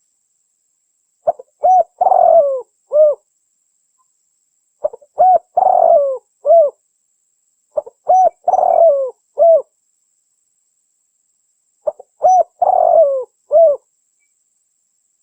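Spotted dove (tekukur) cooing, played as a lure call: four near-identical phrases about every three and a half to four seconds, each a few short coos, a longer rougher coo, then a final short coo.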